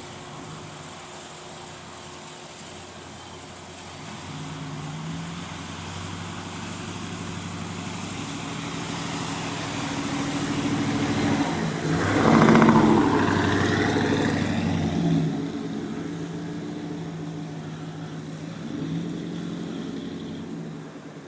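A motor vehicle's engine passing by: it grows louder to a peak about twelve seconds in, its pitch dropping as it goes past, then fades, with a smaller swell near the end.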